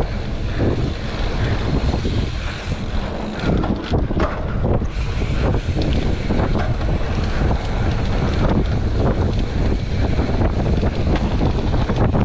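Mountain bike running down a rough dirt trail: wind buffets the microphone over a steady rumble of tyres on the ground, with frequent knocks and rattles from the bike.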